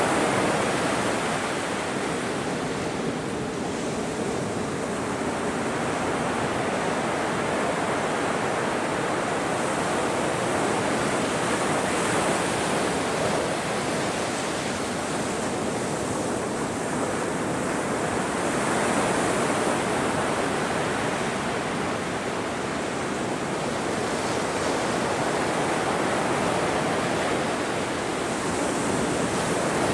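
Ocean surf: a continuous rush of breaking waves that slowly swells and eases every several seconds.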